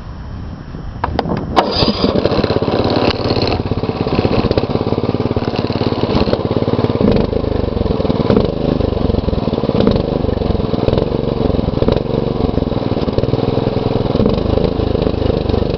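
2012 MTD lawn tractor's engine cranked by its electric starter on the key, started cold on choke; it catches about a second and a half in and then runs steadily.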